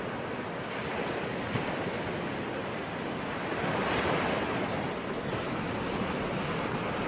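Ocean surf: waves breaking and washing in as a steady rush, swelling a little about four seconds in.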